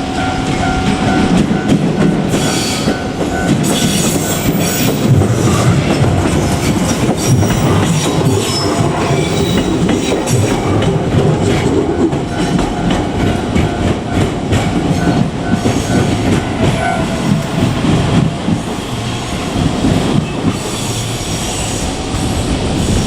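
JR Kyushu 817 series electric train passing a level crossing, its wheels clattering over the rail joints. The crossing's warning bell rings repeatedly for the first couple of seconds.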